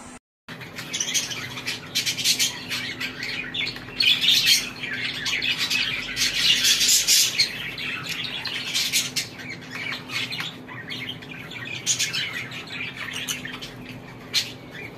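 Many caged birds chirping and squawking together in a dense, overlapping chorus, busiest in the middle. The sound cuts out briefly about half a second in.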